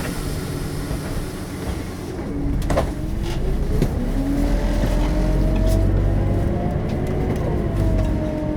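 Scania K270UB bus with its DC9 five-cylinder turbodiesel and ZF Ecomat automatic gearbox, heard from inside while pulling away. A whine rises in pitch from about three seconds in over the engine's low rumble, then levels off and eases down near the end. A few sharp knocks and rattles are heard along the way.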